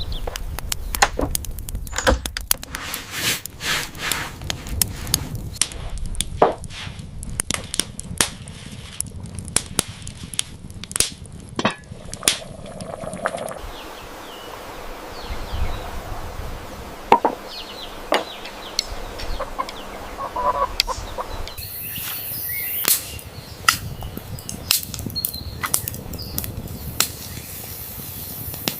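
Knife chopping on a cutting board: a long run of sharp, irregular knocks, in several short stretches.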